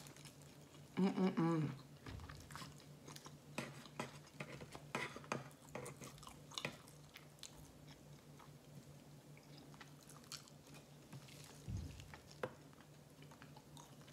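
Close-miked chewing of sushi, with wet mouth clicks and smacks scattered throughout. A short hummed voice sound comes about a second in, and a faint steady hum runs underneath.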